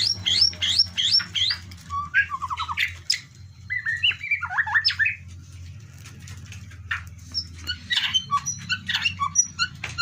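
White-rumped shama singing: a fast run of repeated rising notes, about six a second, then varied whistled phrases with falling sweeps, and after a short lull a string of short chirps.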